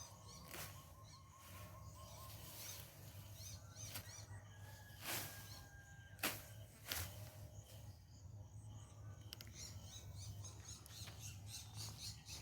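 Faint countryside ambience: small birds chirping, with a held thin whistled note a little after four seconds. A few sharp clicks and a low steady hum sit underneath.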